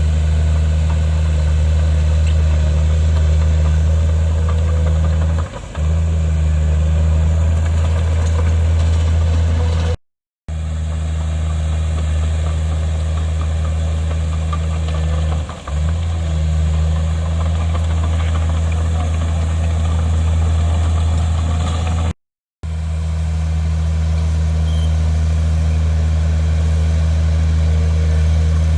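Bulldozer's diesel engine running steadily with a deep hum. It dips briefly twice and breaks off into silence for a moment twice, about a third and three quarters of the way through.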